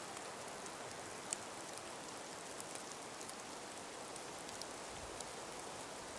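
Calm breeze through an ice- and snow-laden forest: a steady soft hiss with scattered tiny ticks, one sharper tick about a second in.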